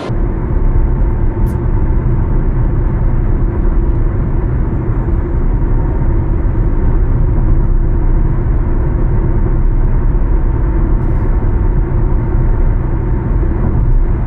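Steady road and engine drone heard from inside a moving car: a deep, even rumble with a faint constant hum.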